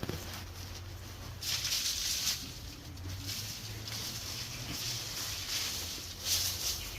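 Scraping and rustling of old bedding and droppings being scraped and swept off a chicken coop floor, in uneven bursts, loudest about a second and a half in and again near the end.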